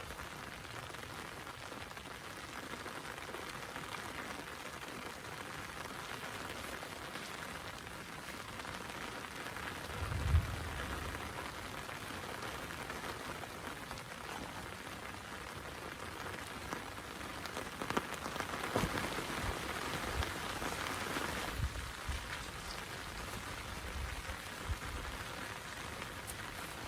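Heavy rain falling steadily, with a sharp low thump about ten seconds in and a denser swell of rain with a few low thumps in the latter half.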